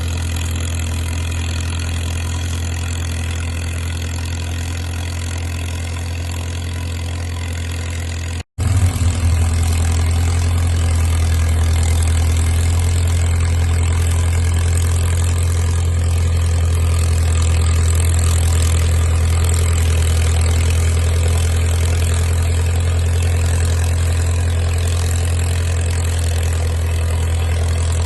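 Caterpillar crawler dozer's diesel engine running steadily with a low drone. The sound drops out for an instant about eight seconds in and comes back louder.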